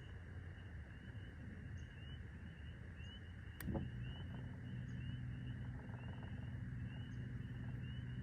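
Low hum of a boat's electric trolling motor, steadier and more even after a sharp knock about halfway through. A faint high chirp repeats about twice a second.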